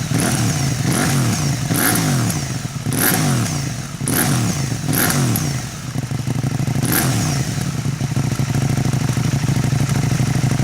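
KTM 790 Duke's parallel-twin engine breathing through an HP Corse EvoXtreme aftermarket exhaust, revved in short throttle blips about once a second. About six seconds in it settles back to a steady idle.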